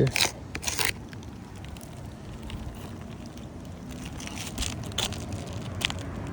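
Brittle 3-tab asphalt shingles crackling and clicking as they are handled: a cluster of crackles in the first second and a few sharp clicks near the end, over a steady low rumble.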